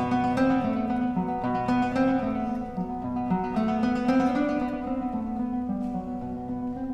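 Background music: acoustic guitar playing a plucked, flamenco-style melody.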